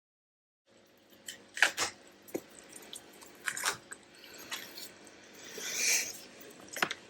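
Paper and card being handled on a desk: a few sharp clicks and taps with rustling, and a longer sliding rustle about six seconds in.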